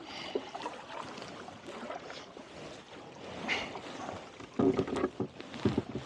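Kayak paddles dipping and splashing in the lake water with each stroke, wind rushing on the microphone, and a few louder strokes near the end.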